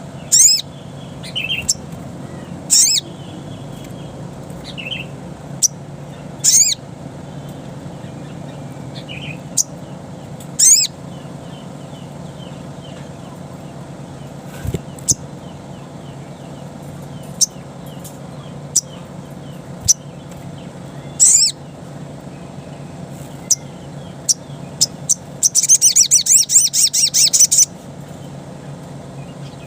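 Little spiderhunter (sogok ontong) calling: single sharp notes every few seconds, each a quick falling sweep. About four seconds before the end comes a rapid run of notes lasting about two seconds. A steady low hum sits under the calls.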